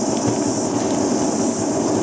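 Old top-loading washing machine spinning its drum loaded with sealed lead-acid batteries: a steady, loud mechanical rumble with a high hiss and faint ticks over it, from a machine with noisy bearings.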